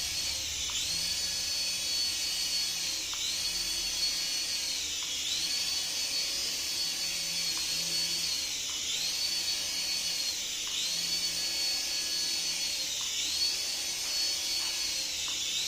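A battery-powered toy's high-pitched whine, dipping briefly in pitch about every two seconds in a regular repeating pattern.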